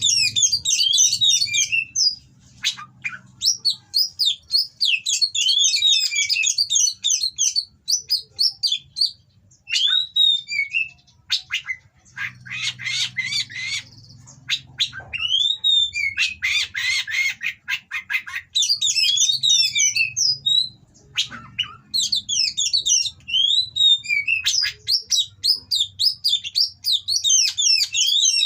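Oriental magpie-robin (kacer) singing in fast runs of high, sliding whistles and chatters with short pauses between runs, and harsh, scratchy passages in the middle.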